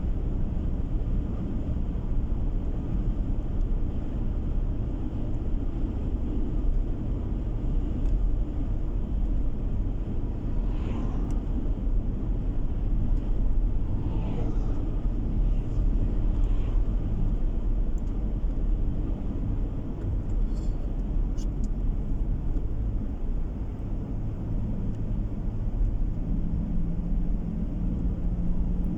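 Car driving on the road, heard from inside the cabin: a steady low rumble of engine and tyre noise, with a steadier low engine hum coming in near the end.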